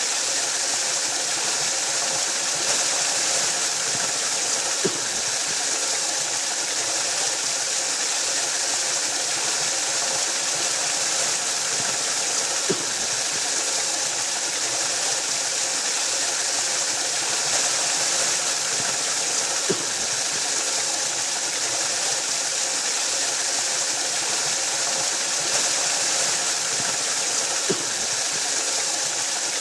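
Waterfall: a steady rush of falling water, with a faint short tick about every seven to eight seconds.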